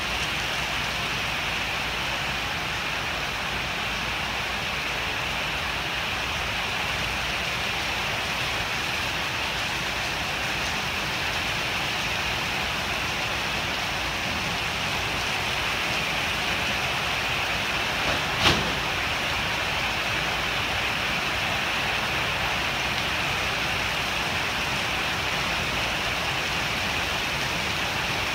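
Heavy rain falling in a steady downpour, with one sharp knock about two-thirds of the way through.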